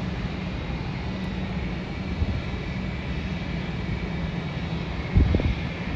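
Airliner jet engines running at the airport: a steady rumble with a faint high whine over it. A short low thump comes about five seconds in.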